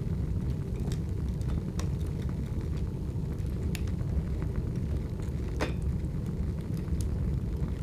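Large open fire burning: a steady low rumble with sparse sharp crackles and pops scattered through it, one louder pop a little past the middle.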